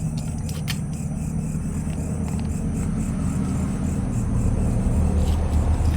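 A steady low rumble like a running engine, growing a little louder in the second half, with a few faint clicks about half a second in.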